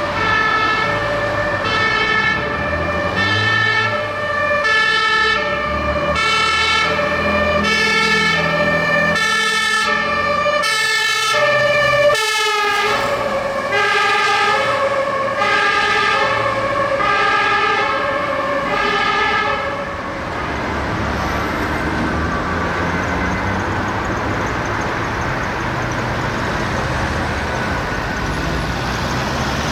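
Fire engine's two-tone siren alternating between a high and a low note about once a second, its pitch dropping as it passes about twelve seconds in. The siren ends about twenty seconds in, leaving steady vehicle engine and traffic noise.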